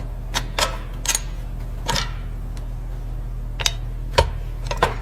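Irregular sharp metal clinks and knocks, about seven in all, some ringing briefly, from tools working on the rusted bulldozer engine's parts during teardown, over a steady low hum.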